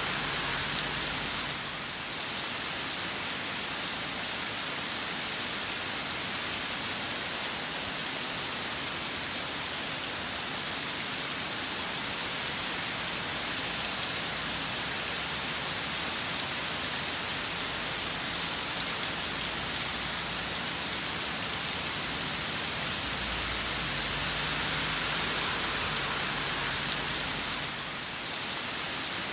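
Rain storm: steady rainfall, an even hiss.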